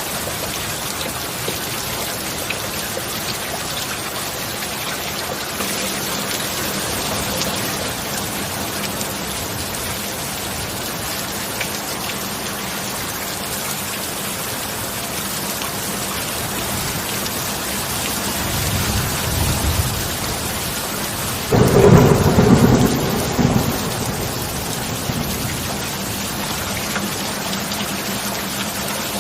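Steady heavy rainfall with a clap of thunder a little past two-thirds through, preceded by a low rumble building over a few seconds and fading after.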